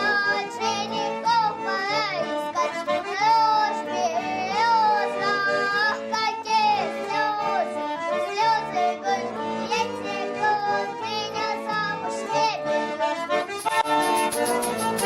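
Russian folk music with accordion accompaniment and a high, child-like voice carrying a wavering melody. About a second and a half before the end, a brisk, regular rhythmic accompaniment comes in.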